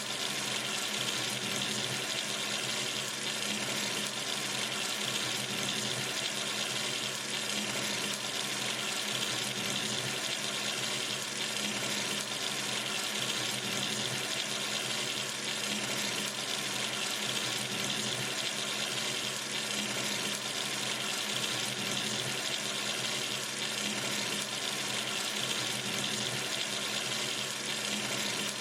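Water running steadily from a sink tap, an even rushing splash with no change.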